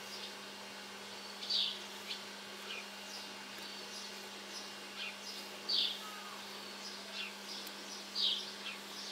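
A small bird chirping in short, high calls every few seconds, with fainter chirps between them, over a steady low hum.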